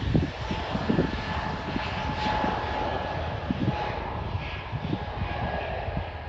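Jet airliner's engines at takeoff power: a steady rumble with a faint whining tone over it and irregular low crackle.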